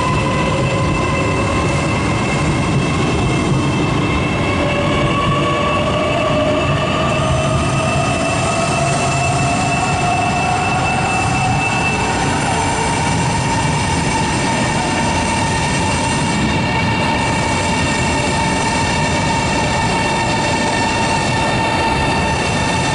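CRH 'Hexie' high-speed electric train running through the station: a steady rolling rumble under the electric whine of its traction equipment. One strand of the whine rises slowly in pitch over about ten seconds as the train picks up speed.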